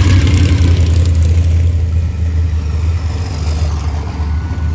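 A motor vehicle's engine running close by, a loud, steady low sound that gets somewhat quieter toward the end.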